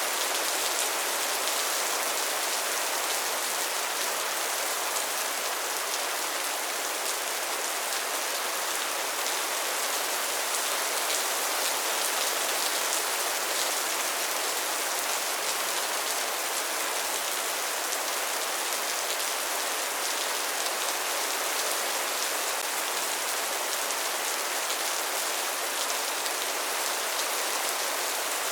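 Steady rain falling, an even, unbroken hiss of dense drops with no thunder.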